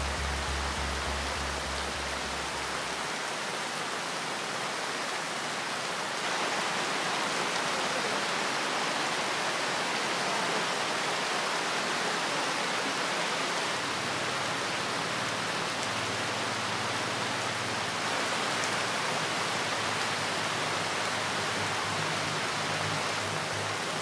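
Heavy rain falling steadily, a dense even hiss that grows louder about six seconds in. A low steady music drone sits underneath, fading out in the first few seconds and coming back about two-thirds of the way through.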